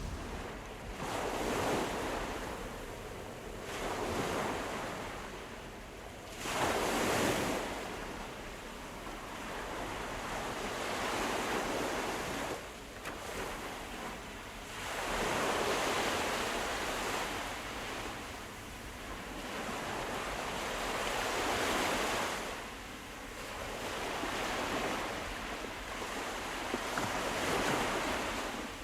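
Sea waves breaking and washing in, swelling and fading every few seconds, with a stronger surge about seven seconds in.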